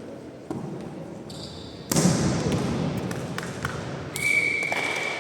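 Volleyball play in a gym hall: a sharp, loud ball hit about two seconds in, followed by a wash of court noise with small ball and shoe knocks. A steady high tone starts near the end.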